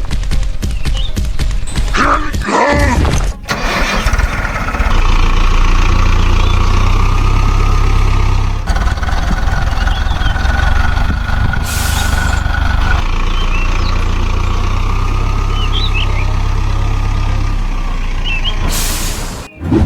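Small engine running steadily with a low rumble and a whine, dropping away near the end. Two short bursts of hiss cut in, one about midway and one near the end.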